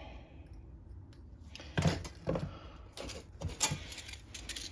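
A handful of short metallic clicks and light clatters, about five over a few seconds, with the loudest about two seconds in: small metal tools and parts being handled.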